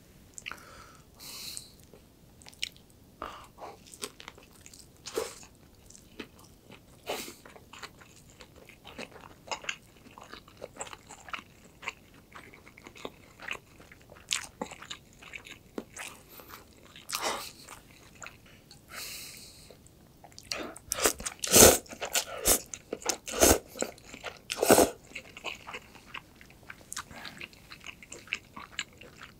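A man biting and chewing a seaweed rice roll filled with kimchi, close to the microphone: mouth sounds with scattered sharp clicks, and a run of louder ones about three-quarters of the way through.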